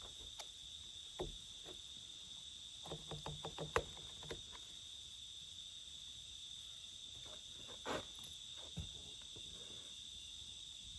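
Steady high-pitched chorus of insects trilling, with a few soft clicks and taps scattered through it.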